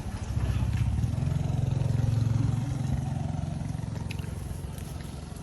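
A motor vehicle's engine running as it passes, growing loudest about two seconds in and then fading away.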